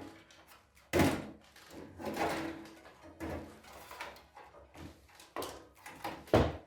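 Clunks, knocks and scraping of desktop computer case parts being handled, with a sharp thud about a second in, a longer scrape around two seconds in, and another loud thud near the end.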